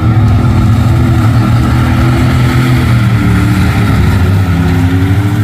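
Loud mud-bog truck engine running steadily, its pitch rising and dipping slightly.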